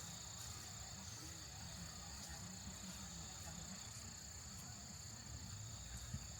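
Crickets trilling steadily, two high, even tones, over a low background rumble.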